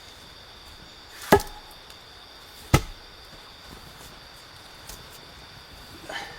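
Two sharp chopping blows about a second and a half apart, with a fainter knock near the end, over a steady high-pitched drone.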